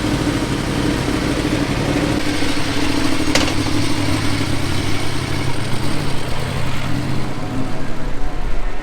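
Motorcycle engine running, held at a steady speed and then easing to a lower, rougher pitch about two seconds in. A sharp click about three seconds in.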